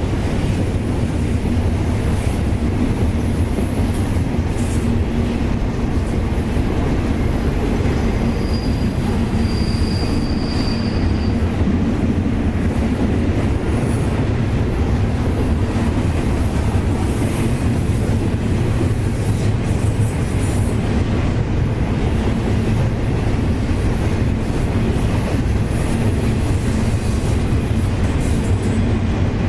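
Freight train rolling past with a steady rumble of railcars on the rails, and several brief high-pitched wheel squeals in the first twenty seconds or so.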